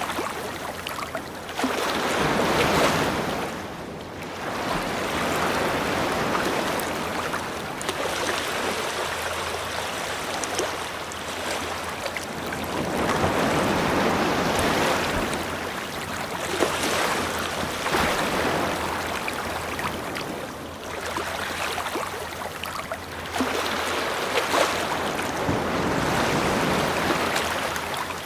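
Sea waves washing onto a beach, the surf swelling and falling back in repeated surges every few seconds.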